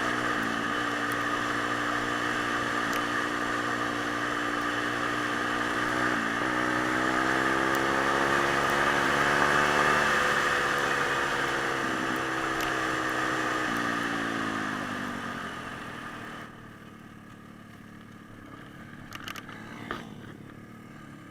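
Pit bike engine running under way: its pitch holds steady, rises over a few seconds as it speeds up, then falls away as it slows. About three-quarters of the way through, the engine sound drops off sharply, leaving a much quieter background with a couple of faint knocks near the end.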